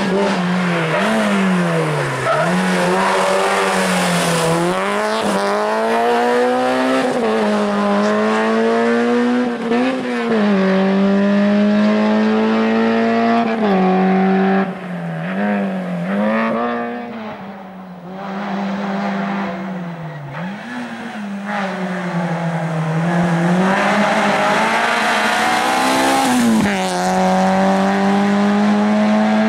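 Peugeot 205 GTI rally car's engine revving hard, its pitch climbing and then dropping sharply many times as the driver shifts gears and lifts off and gets back on the throttle through corners. It fades for a few seconds about two-thirds of the way through, then climbs again.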